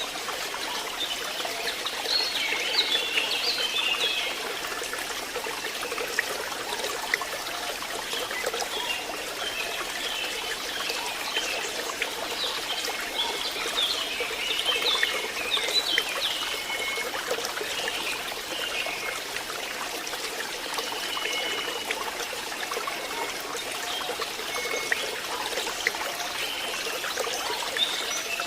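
Stream water trickling and splashing steadily, with birds chirping in short bursts of calls now and then, busiest about two to four seconds in and again around the middle.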